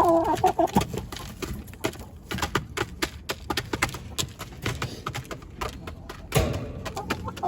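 Chickens pecking at scattered granola: rapid, irregular tapping of beaks, with a short call near the start.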